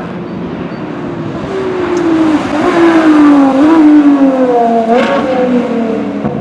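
A high-performance car engine driving past, growing louder to a peak midway and then dropping in pitch as it goes away, with two short jumps up in pitch and a sharp crack about five seconds in.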